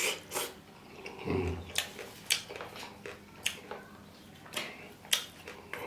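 Close-up eating sounds from a person eating rice and curry by hand: chewing with sharp, wet lip smacks and mouth clicks every half second or so, and a short low hum from the eater about a second and a half in.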